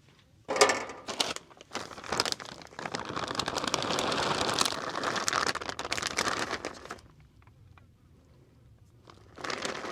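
Crinkling of a mozzarella packet as it is handled and the cheese is shaken out over the tray. The rustling starts about half a second in, runs busily for several seconds, stops, and comes back briefly near the end.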